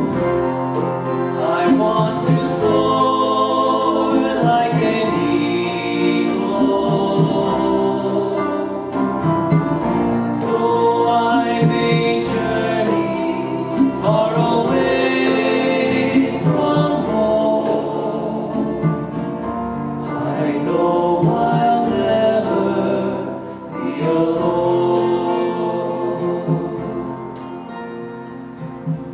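A song sung with instrumental accompaniment, the voices carrying a held, gospel-style melody.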